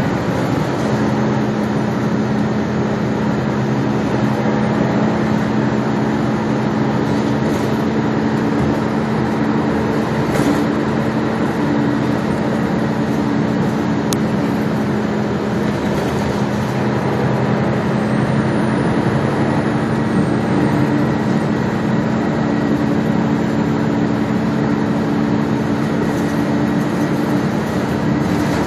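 Gillig Low Floor transit bus's engine and drivetrain running steadily under way, a constant hum with a low steady drone and no HVAC fan running.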